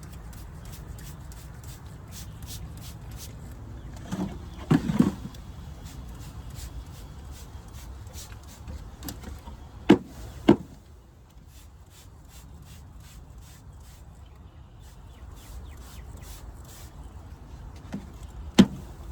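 A bee package being knocked down hard, several sharp thumps (a cluster about five seconds in, a pair about ten seconds in, another pair near the end), jolting the clinging bees off the top of the box so the syrup can and queen cage can be pulled out.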